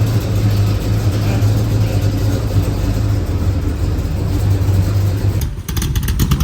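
Car engine running steadily with a deep, even hum. About five and a half seconds in it cuts abruptly to a different, choppier sound.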